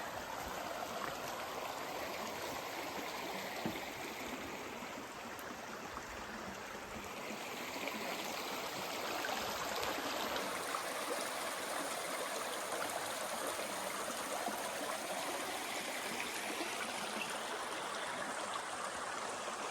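Mountain stream rushing and babbling over rocks, a steady, even water sound that swells slightly about halfway through.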